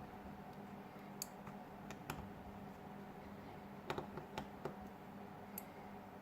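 Sparse, irregular small clicks and taps of hands and tools on a smartphone's plastic parts as it is taken apart, over a faint steady hum.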